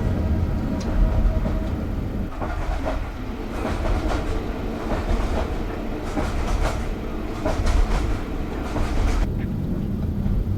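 Train on the East Lancashire Railway running along the track: a steady low rumble with irregular clicks and clatter from the wheels and rails.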